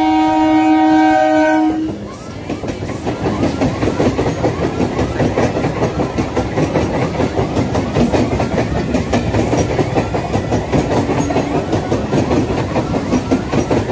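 Eastern Railway electric multiple-unit (EMU) local train sounding its horn in a steady multi-tone blast that stops about two seconds in. Its coaches then pass close by with a rapid, continuous clatter of wheels over the rail joints.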